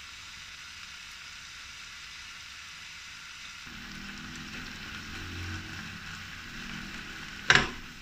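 Shrimp sizzling steadily as they stir-fry in hot oil in a frying pan. A single sharp knock comes near the end.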